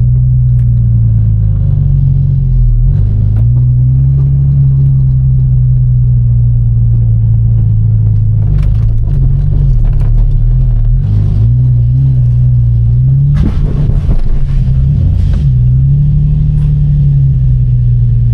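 Infiniti G35's 3.5-litre V6 engine running near idle, with a few small rises and falls in revs.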